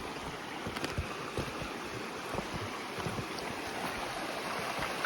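A shallow mountain creek running in a steady rush, with small irregular knocks and splashes through it.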